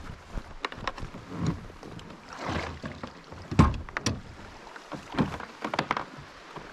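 Water splashing and slapping against a fishing kayak's hull, with scattered knocks on the hull and one louder thump about three and a half seconds in.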